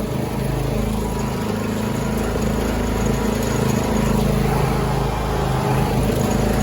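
Riding lawn tractor engine running steadily.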